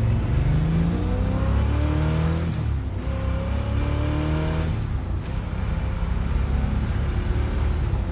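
Classic car engine accelerating hard through the gears of a manual gearbox, its pitch climbing and then dropping at two upshifts, about three and five seconds in. It pulls cleanly, without a hiccup or a cough.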